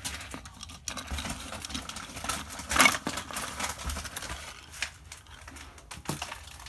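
Small clicks and rattles of plastic toy trains being handled, with a louder scrape about three seconds in.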